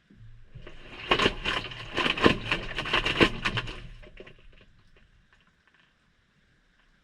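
Maytag front-loading washing machine drum turning on a delicate cycle, heard from inside the drum: a low motor hum starts, then laundry tumbles and drops with a rapid run of knocks and splashes for about three seconds, fading out as the drum slows and stops about five seconds in.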